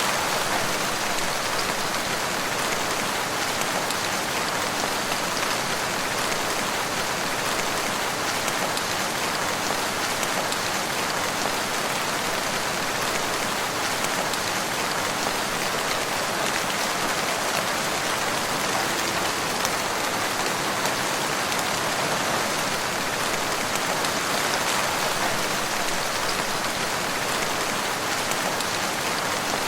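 Steady rain falling in a forest, an even hiss of many fine drops pattering on leaves and ground without a break.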